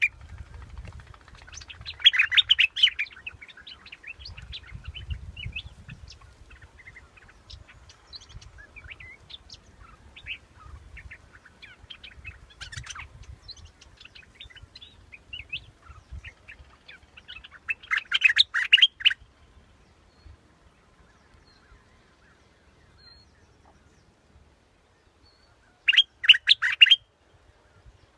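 Bulbul song, the Thai 'dok taeng' bird, played as a lure call. It comes in three short bursts of quick, bright notes, about two seconds in, around eighteen seconds and near the end, with fainter chirps in between.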